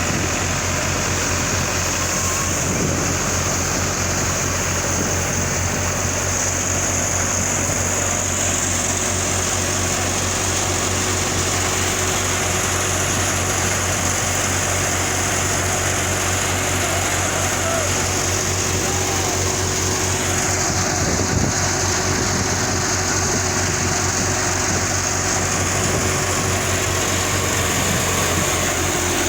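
Tractor engine running steadily under load, driving a grain thresher, with a steady high whine over the engine's even pulse.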